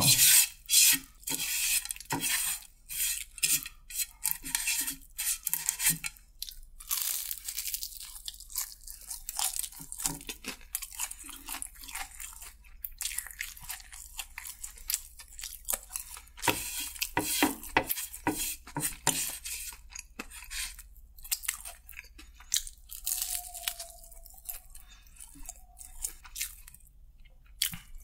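Close-up chewing of crispy fried chicken: irregular crunching bites with wetter chewing between them.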